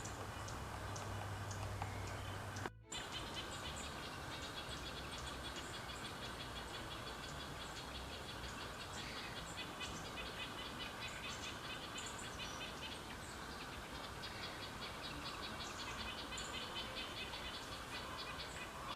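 Many small birds chirping and twittering over a steady outdoor background noise, with a brief dropout about three seconds in.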